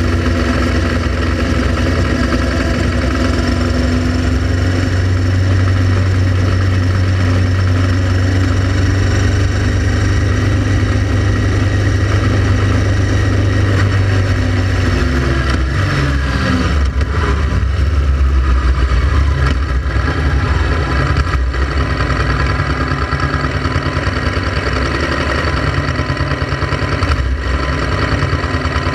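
Honda Transalp XL700V V-twin motorcycle engine running steadily; its note drops about halfway through and then carries on lower.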